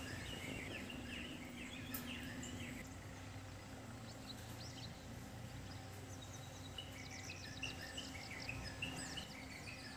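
Small birds chirping and twittering against faint outdoor background noise, with a quick run of high notes about seven seconds in. A single sharp click about two seconds in.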